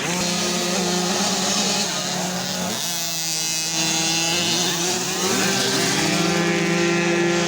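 Several motocross bike engines racing, their pitch rising and falling with the throttle, one sliding down and back up about three seconds in.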